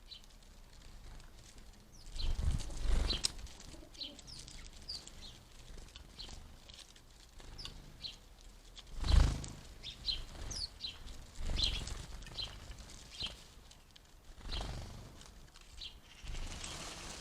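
Small garden birds chirping, with many short high calls scattered through. Several low rushes of noise break in, the loudest about nine seconds in.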